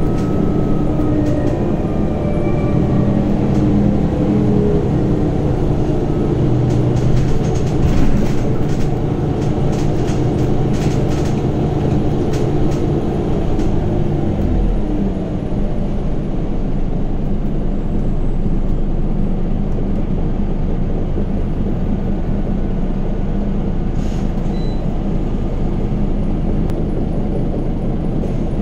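Inside a Scania Omnicity city bus on the move: its diesel engine and ZF 6HP Ecomat automatic gearbox running, with the pitch falling in the first few seconds. Scattered rattles and clicks through the middle, then a lower, steadier engine rumble from about halfway.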